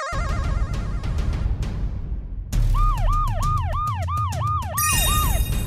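Police siren sound effect: a fast rising-and-falling wail, about three cycles a second, that starts about halfway through over a low rumble.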